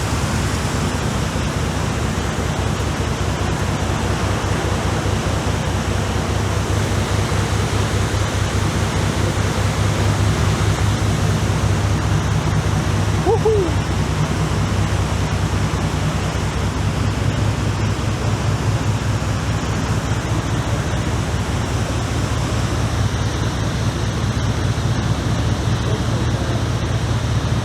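Boat under way: a steady low engine drone under a constant rush of wind and water.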